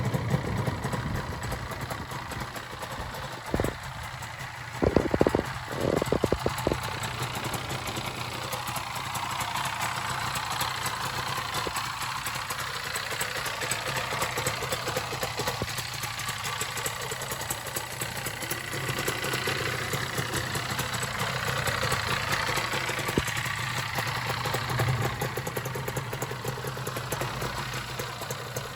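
Kawasaki KR1's 250 cc two-stroke parallel-twin engine idling steadily, ticking over with no choke. A few sharp knocks sound over it a few seconds in.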